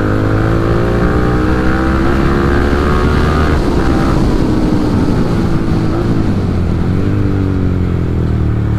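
Yamaha R15 V3's single-cylinder engine through an Akrapovic exhaust with the dB killer removed, pulling hard: the exhaust note climbs steadily for about three and a half seconds, then turns rougher, with shorter dips and rises later on.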